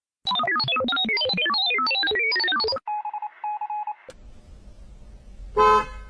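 Electronic tones in quick falling runs, then a pulsing steady beep for about a second, followed by a low faint rumble and a short pitched sound near the end.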